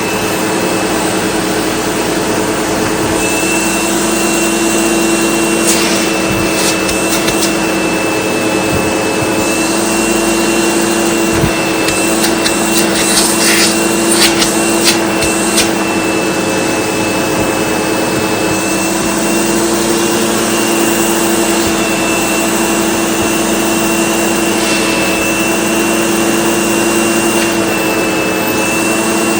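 SEBO Automatic X4 bagged upright vacuum cleaner running steadily, a hum with a high whine over it. Debris clicks and rattles through it a few seconds in, and more thickly around the middle, as it sucks up the mess.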